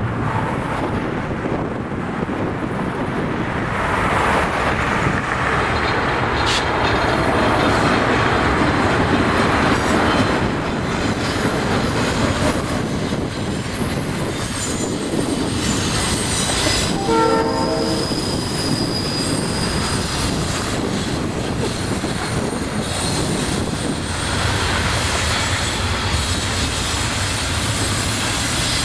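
Freight train hauled by EMD GP38-2 diesel locomotives passing: a steady rumble and rattle of the train on the rails, with thin high wheel squeal at times. A short horn blast sounds about two-thirds of the way through.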